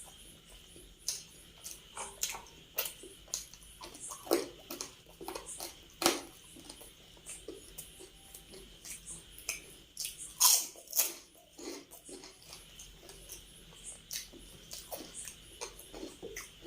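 Close-miked eating sounds: chewing with wet mouth clicks and lip smacks coming irregularly, a few louder smacks about four, six and ten seconds in.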